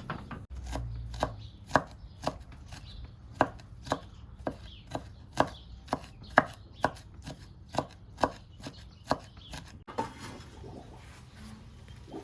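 Knife chopping on a cutting board: steady strokes, about two a second, which stop about ten seconds in.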